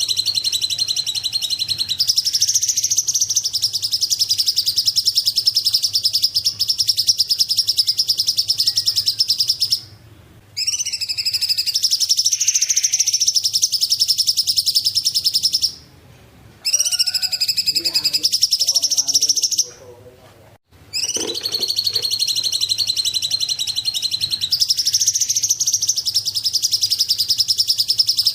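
Cungkok bird singing: a long, fast run of high, sharp chirps in a rapid trill, stopping briefly three times before starting again.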